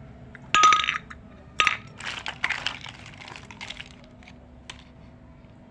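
Small hard pieces of a miniature toy kitchen set clinking as they are handled. Two sharp clinks with a brief ringing tone come about half a second and a second and a half in, followed by a couple of seconds of lighter clattering.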